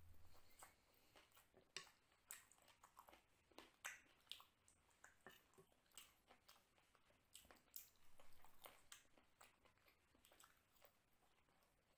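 Faint, close-miked chewing and mouth clicks from a man eating chicken biryani by hand, short smacks at irregular intervals that thin out over the last few seconds.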